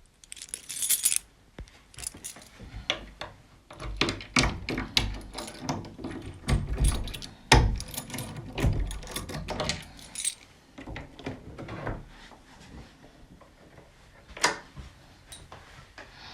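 Keys jangling, then a run of clicks, knocks and low thumps over several seconds that thins out toward the end, with one sharp knock near the end.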